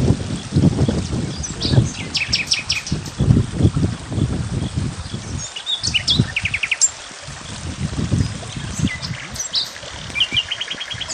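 Several birds chirping and calling, some in short rapid trills. Under them run irregular low thumps and rumble, heaviest in the first half.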